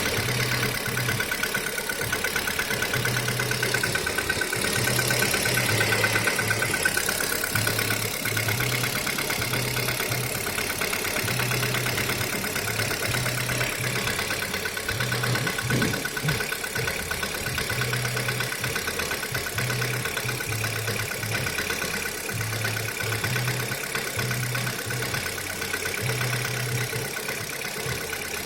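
Kia Rio third-generation petrol engine idling cold with a fast, even knocking tick. This is the cold-engine knock that the owner is recording.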